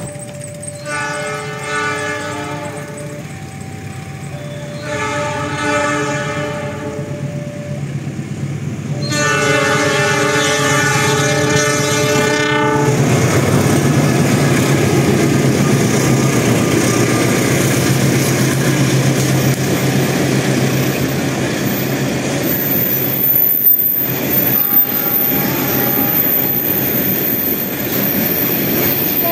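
A train's locomotive horn sounds three long blasts, each a chord of several tones, the last one the longest. The train then runs close by with a steady rumble and rattle of wheels on rail, and a thin high whine joins in about three quarters of the way through.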